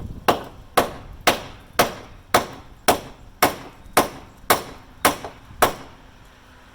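Hammer striking the bent sheet metal of a car body, eleven even blows about two a second, then stopping. The blows relieve the stress in a fold so the panel can be pulled back into shape.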